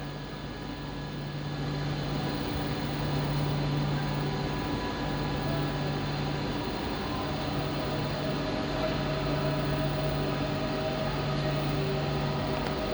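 A train running past with a steady low hum. It grows louder over the first two seconds, and higher steady tones join about halfway through.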